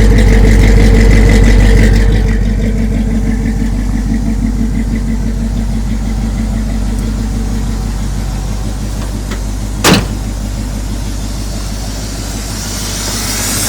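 Chevrolet 350 small-block V8 idling steadily through headers and turndown exhaust tips, running smoothly now that the crossed spark plug wires are corrected. It is a little louder for the first two seconds, then settles; a single sharp knock sounds about ten seconds in.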